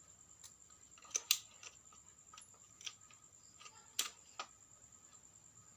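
Scattered light clicks and taps of small parts and tools being handled, the loudest about a second and a quarter in and again about four seconds in, over a faint steady high-pitched whine.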